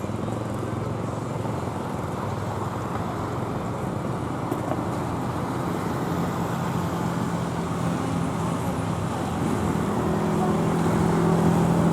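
Steady road-traffic noise with a low engine hum that grows louder near the end, as a vehicle draws closer.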